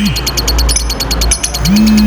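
Lovebird's long, rapid chattering trill ('ngekek panjang'), about a dozen high notes a second without a break. A low humming tone swells in and fades out about every two seconds.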